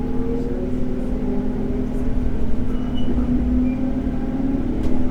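JR 211 series electric multiple unit running along the line: a steady motor hum over the rumble of wheels on rail, with a few faint clicks.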